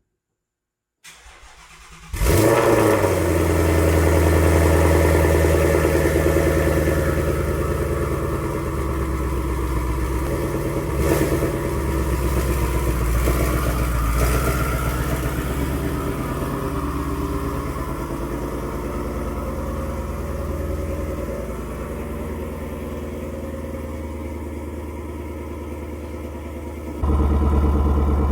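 Twin-turbo Ford Mustang engine starting: brief cranking, then it catches about two seconds in with a rev flare and settles into a steady idle that slowly grows quieter. Near the end the engine sound abruptly becomes louder.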